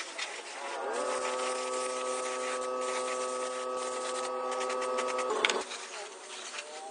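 A small electric power tool's motor spins up about a second in, runs at a steady pitch for about four seconds over a scratchy rubbing, sanding sound, then stops. Scattered clicks and handling knocks run throughout.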